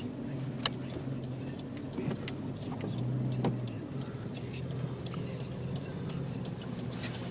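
Car engine running steadily, heard from inside the cabin while driving in four-wheel drive through snow, with scattered small clicks and ticks. A sharper click about two-thirds of a second in and a loud click at the very end.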